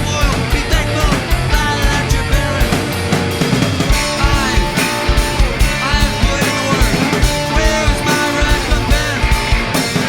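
A rock band playing a punk-style song with drums, electric guitars and bass, a steady beat of drum hits throughout.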